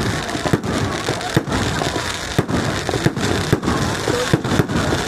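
Fireworks crackling: a loud, continuous hiss studded with rapid, irregular sharp pops.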